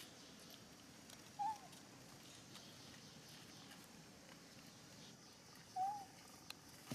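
Two short coo calls from a baby macaque, about four seconds apart, each rising then dropping in pitch, over a faint background hiss.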